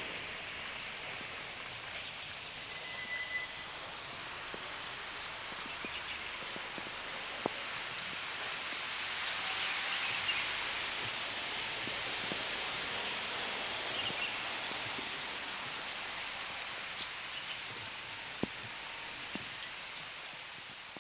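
Steady hiss of heavy rain, growing slightly louder towards the middle, with a few isolated sharp ticks.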